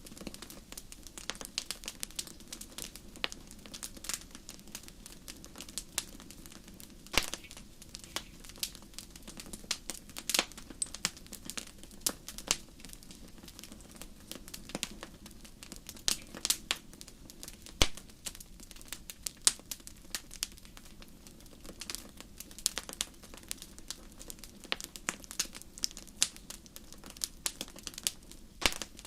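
Wood fire burning in a fireplace: irregular sharp crackles and occasional louder pops over a steady low background noise.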